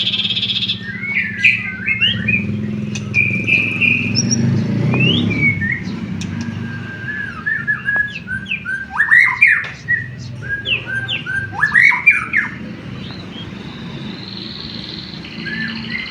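White-rumped shama (murai batu) singing a varied run of whistled notes and sharp up-and-down sweeps, over a steady low hum.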